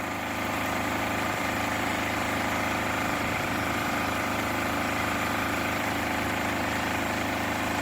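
An engine idling steadily, a little louder about half a second in.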